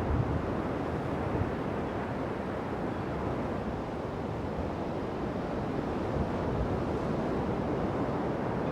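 Strong southeasterly wind with surf: a steady rushing noise, with gusts buffeting the microphone.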